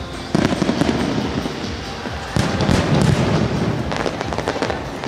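Aerial fireworks bursting in two heavy volleys, one just after the start and another about two seconds later. Each volley is followed by dense crackling and rumbling booms.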